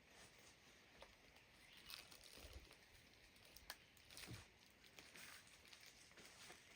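Near silence with a few faint, scattered taps and scuffs.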